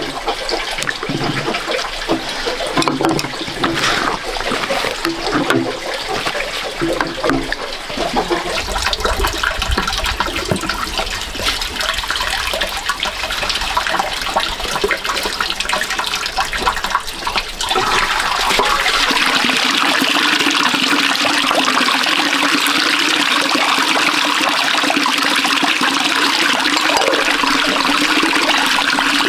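Water running and splashing, turning into a louder, steady rush about eighteen seconds in.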